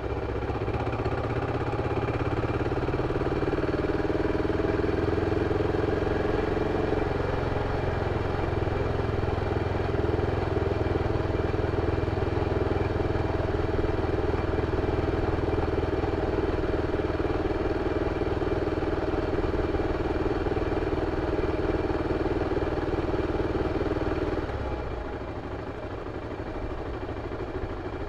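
BMW F 650 CS motorcycle's single-cylinder engine running steadily through its stock exhaust, dropping noticeably in level near the end.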